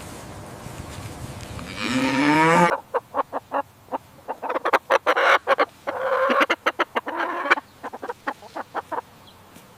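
A cow's moo rising and cutting off a little under three seconds in, then a chicken clucking in a fast run of short calls with longer drawn-out cackles mixed in, stopping about a second before the end.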